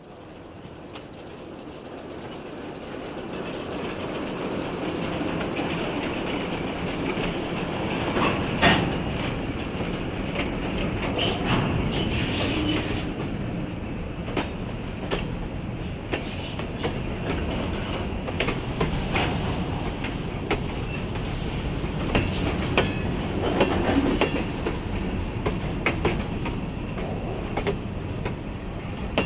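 Train rolling by, its wheels clicking over rail joints again and again, growing louder over the first few seconds and then holding steady.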